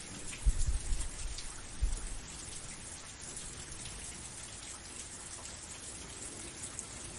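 Steady rain falling: a dense hiss of drops with scattered sharper drop ticks. A few low thuds sound in the first two seconds.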